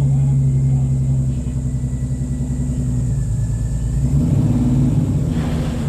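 Holden 202 straight-six engine of a VK Commodore running. Its revs dip about a second and a half in and pick up again around four seconds.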